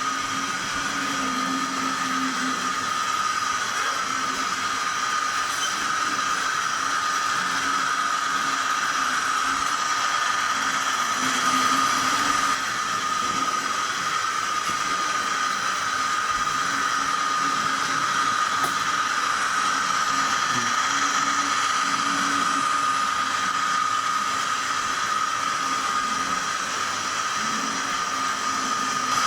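Sound decoder of an SDS Models NR class diesel locomotive model playing its engine running sound through the model's small speaker. It holds a steady high whine over a wavering low rumble.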